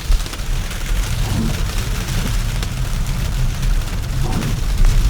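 Road noise inside an electric car's cabin while driving on a snow-packed road: a steady low rumble of the tyres over packed snow, with a constant hiss and fine ticking of sleet on the car.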